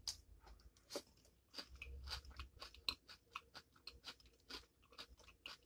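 Faint close-up chewing of a mouthful of broccoli in cheese sauce: many short, irregular crunches and wet mouth clicks.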